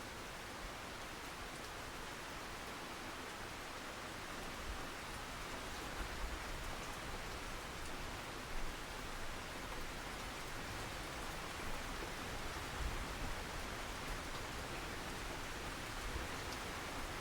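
Steady rain falling, an even hiss with a few soft low thumps here and there.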